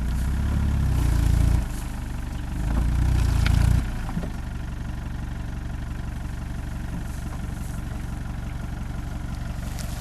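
Off-road SUV engine revved hard twice in quick succession as the stuck vehicle is rocked back and forth, then dropping back to a steady idle: the vehicle fails to climb out under its own power.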